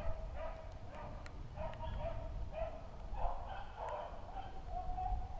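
Beagles baying while running a rabbit: repeated drawn-out, ringing bays, about two a second, some overlapping.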